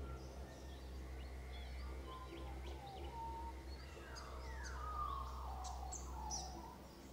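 Birds calling in open country: scattered short, high chirps and a few falling whistled calls, the clearest a little after the middle, over a steady low hum.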